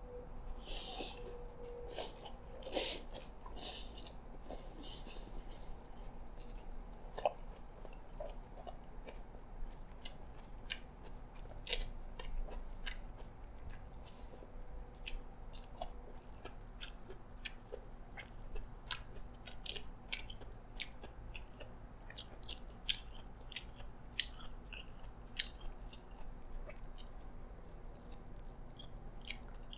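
Close-miked mouth sounds of a person chewing a mouthful of yee sang, a raw-fish salad of shredded vegetables: wet chewing with many small mouth clicks. The loudest, noisiest bites fall in the first few seconds.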